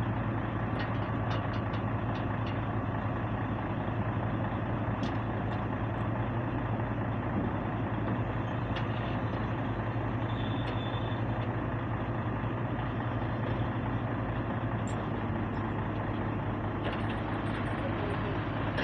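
Heavy diesel engine running steadily at idle, a constant low hum with a few faint ticks over it.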